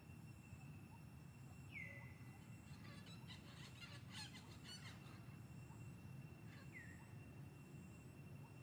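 Near silence in forest with faint bird calls: a short call sliding downward about two seconds in and again near the end, with a brief scatter of high chirps in between.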